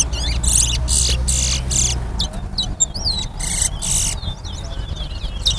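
Two caged towa-towa finches (chestnut-bellied seed finches) singing against each other: repeated buzzy trilled phrases alternating with quick whistled notes. A low rumble runs underneath, dropping away about two seconds in.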